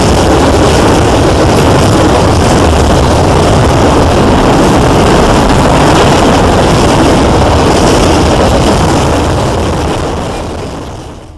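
A train passing close by: a loud, steady rumbling roar of engine and rolling wheels that fades out near the end.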